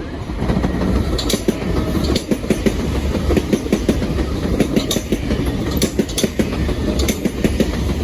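A pair of Southern Class 377 Electrostar electric multiple units passing by: a loud, steady rumble with rapid clacking of wheels over the rail joints.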